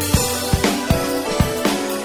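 Instrumental band music led by a drum kit: steady bass-drum and snare strikes about two to three a second, a cymbal crash at the start, over held pitched notes.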